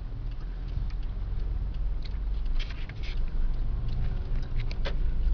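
Low, steady rumble of a car heard from inside the cabin while driving on a snowy road, with scattered small clicks and crackles over it.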